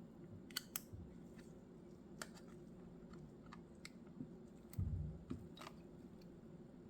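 A handful of sharp little clicks and taps from small parts and tools being handled during a phone repair, two close together about half a second in, with a dull low thump about five seconds in.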